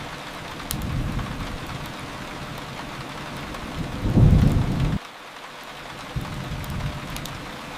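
Steady rain with low rolling thunder rumbles swelling and fading. The loudest rumble comes about four seconds in and cuts off abruptly a second later.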